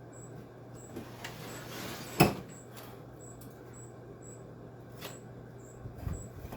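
Hand work on a window air conditioner's parts: a single sharp knock about two seconds in, a few lighter clicks, and a short clatter near the end. Under it runs a steady low hum and a faint high chirp repeating about twice a second.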